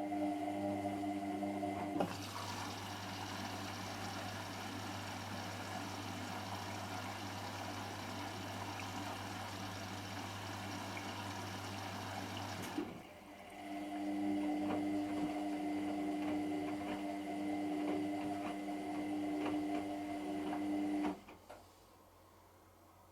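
Hotpoint Extra WMXTF742K washing machine running mid-cycle: a steady motor hum, then water rushing in over a low hum for about ten seconds, a brief pause, then the hum again with light knocks, stopping abruptly near the end.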